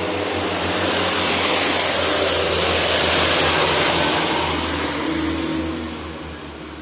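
Heavily loaded diesel truck labouring uphill: a low engine drone under a high, steady turbo whistle. It grows louder over the first couple of seconds, holds, then fades near the end.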